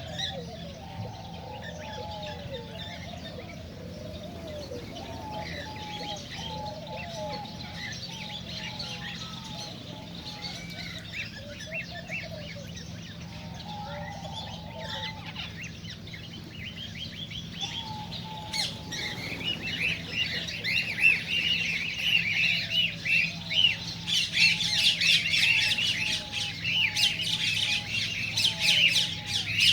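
Cockatiels chirping and calling, in many short whistled chirps and glides, growing louder and busier with shrill squawky calls from about two-thirds of the way in. A steady low hum runs underneath.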